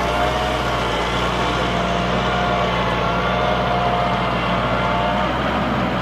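An LS XR4040 compact tractor's diesel engine running steadily under load while it pulls a plow, cutting off abruptly at the very end.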